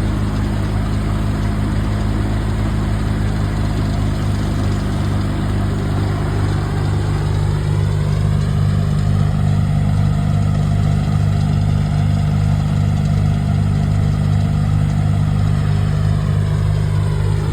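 A large engine idling steadily close by, a constant low drone that holds its pitch.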